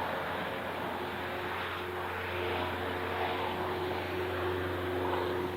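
Light piston-engine propeller aircraft running, a steady drone with constant engine tones that grows slightly louder about two and a half seconds in.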